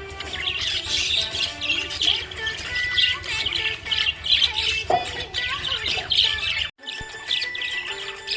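Budgerigars chirping in a dense, continuous stream of short high chirps, over background music with a low steady pulse. A moment of silence briefly cuts everything a little before the end.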